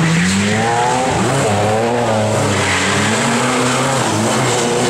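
Rally car engine revving hard, its pitch climbing about half a second in and then rising and falling repeatedly, over a hiss of tyre noise.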